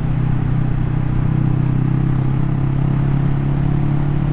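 Kawasaki Vulcan S motorcycle's 649 cc parallel-twin engine running at a steady cruise on the road, with a constant rush of wind and road noise.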